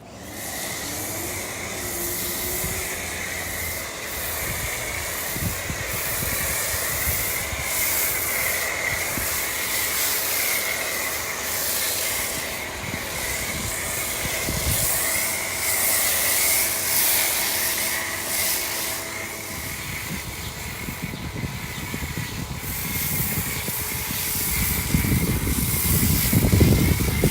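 Pressure washer spraying foam through a foam cannon: a steady hiss of spray with a wavering high whine, and louder low rumbling near the end.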